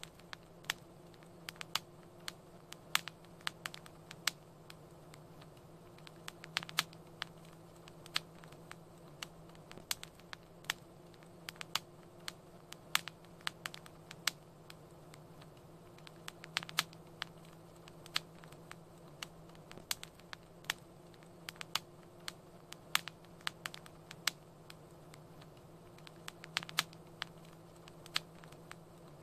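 Wood fire crackling: irregular sharp pops and snaps, several a second at times, over a steady low hum.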